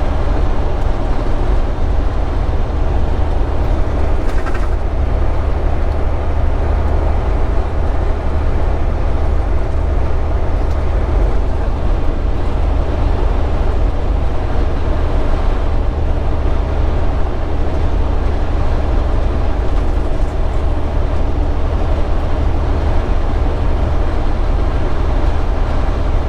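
Inside a semi truck's cab cruising on the highway: the steady low rumble of the diesel engine mixed with road noise.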